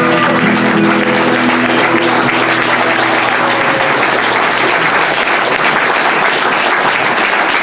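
The final chord of the acoustic guitar and violin rings out and fades over the first couple of seconds, and audience applause carries on loudly after it.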